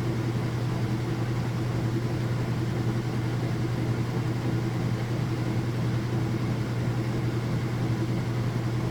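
Whirlpool washing machine in its high-speed spin cycle, the drum and motor giving a steady, even hum.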